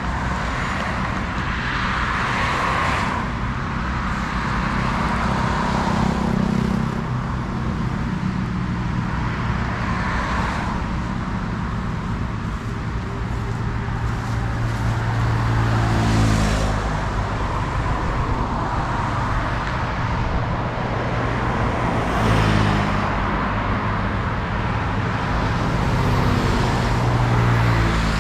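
Road traffic: heavy truck engines running, their hum shifting up and down in pitch, with vehicles passing every few seconds.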